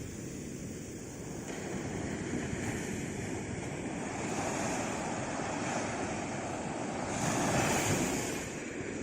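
Sea waves washing on a shore: a steady rush of surf that swells to its loudest about three-quarters of the way through, then eases off.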